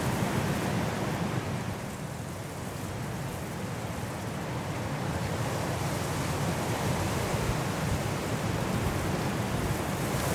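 High wind blowing through trees in a snowstorm, a steady low roar that eases about two seconds in and then builds again.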